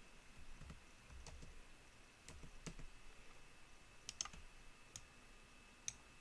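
Faint, irregular clicks of a computer mouse and keyboard, a handful of separate taps spread over a few seconds.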